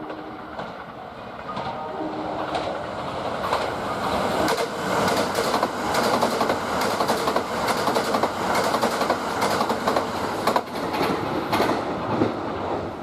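Kintetsu 21000 series Urban Liner Plus limited express train running through the station at speed. A short stepped tone sounds about two seconds in. The rush of the train and the rapid clatter of its wheels over the rail joints then build up, stay loud for several seconds and fade near the end.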